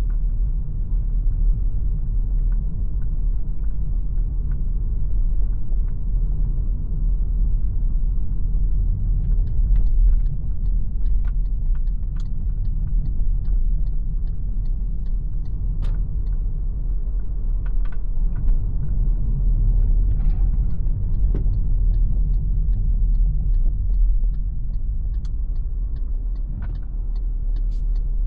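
MG ZS Hybrid+ car driving, a steady low rumble of road and drivetrain noise with no change in level. Faint light clicks tick at an even pace through much of the second half.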